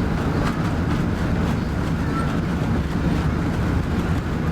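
Steady low rumble of an Airbus A380's engines and rushing air heard inside the passenger cabin, with a few faint clicks.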